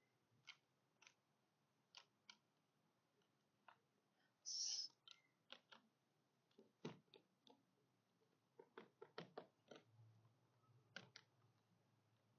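Near silence broken by faint, scattered clicks and taps as small roof-rack clamp and screw parts are handled, with a brief scraping hiss about four and a half seconds in and a quick cluster of clicks near the end.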